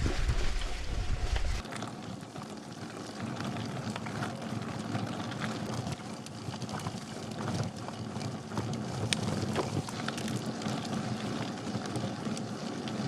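Rose Backroad gravel bike riding over loose ground: a steady hiss of tyres rolling, with scattered small ticks and rattles from stones and the bike. Wind rumbles heavily on the microphone for the first second or two, then stops abruptly.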